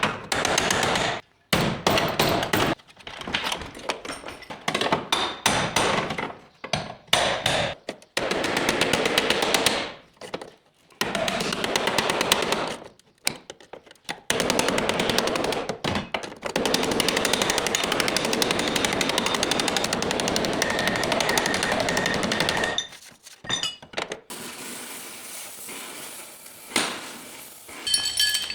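A body-shop power tool running in bursts of a few seconds: a fast, rattling train of impacts that stops and starts again several times, and is quieter and more broken up in the last few seconds.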